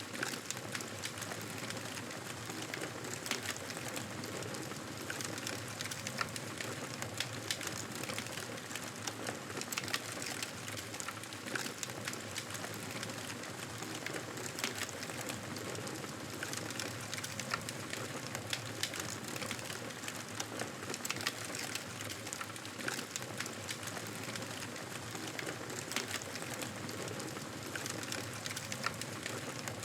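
Wood fire crackling steadily in a fireplace: a constant hiss with frequent small pops and snaps.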